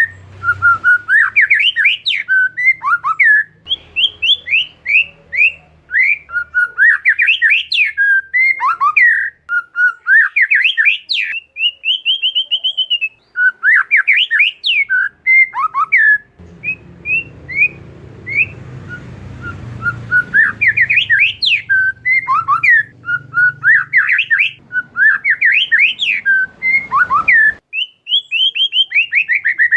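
Oriental magpie-robin (kacer) singing a long, fast, varied song of sweeping whistled notes with a held whistle in the middle, over a faint low hum for part of the time.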